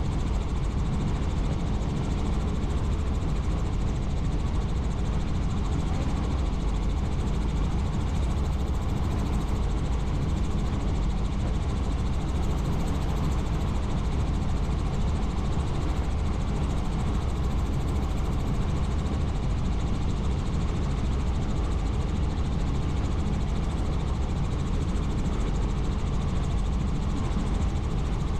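Helicopter in flight: a steady drone of rotor and engine noise, strongest in the low end and unchanging throughout.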